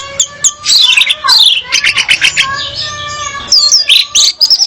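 Female orange-headed thrush calling: a dense string of sharp chirps and whistled sweeps, with a fast rattle of repeated notes about two seconds in and looping up-and-down whistles near the end.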